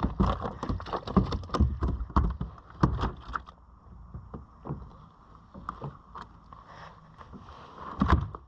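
Rapid flurry of knocks and thuds on the kayak as a freshly landed snapper is brought aboard and handled; the knocks thin out after about three and a half seconds, with a louder thump near the end.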